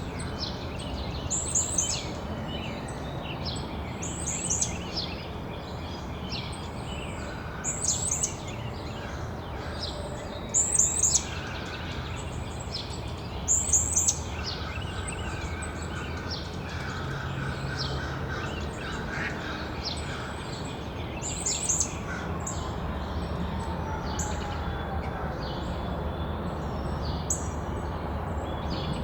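Several songbirds chirping and calling at backyard feeders: short, high, falling chirps repeated every few seconds, the loudest about 1.5, 4.5, 8, 11, 14 and 22 seconds in, over a steady low background rumble.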